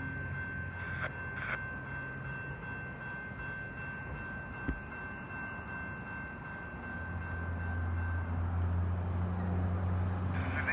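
Canadian Pacific freight train rolling past: a steady rumble of wheels on rail with a thin, steady high ringing tone, a couple of clicks and one thump from the cars. A diesel locomotive's low drone grows louder in the last few seconds.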